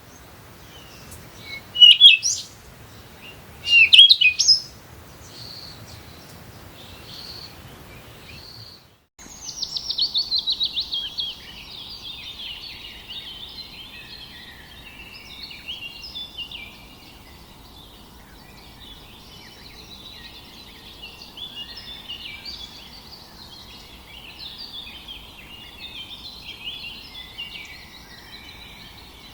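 Birds calling: loud sweeping calls about 2 s and 4 s in, then, after a brief dropout, a fast loud trill and a busy chorus of many birds chirping.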